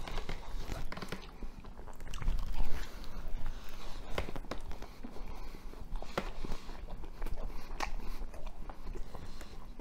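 A man biting into and chewing pizza close to the microphone: irregular short mouth clicks and smacks as he chews.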